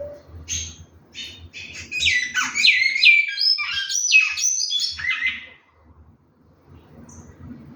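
Great-billed seed finch (bicudo) singing one phrase of clear, whistled notes, many of them sliding downward. The phrase starts with a few short notes about half a second in, grows louder and faster in the middle, and stops about two seconds before the end.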